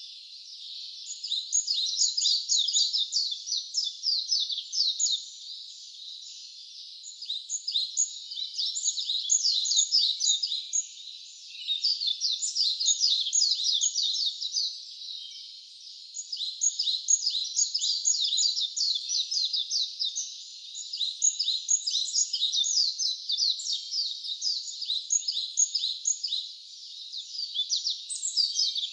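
Wild birds chirping: a dense run of rapid, high-pitched chirps that swells in waves of a few seconds each, with short lulls between.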